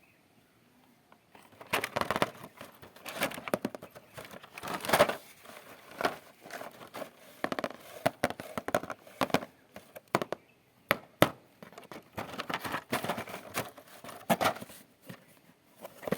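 Plastic packaging crinkling and rustling as a toy is unboxed and handled: irregular crackles and clicks starting about a second and a half in, coming in uneven clusters with short pauses.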